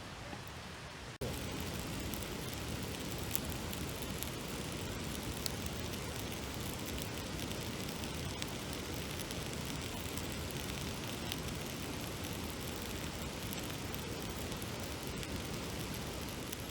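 Steady rushing of a mountain stream, an even noise with a few faint clicks, cutting in abruptly about a second in.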